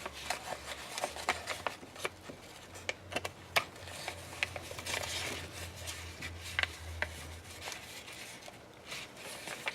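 Hands handling craft materials on a tabletop: light rubbing and rustling with scattered small clicks and taps. A faint low hum sits underneath and stops near the end.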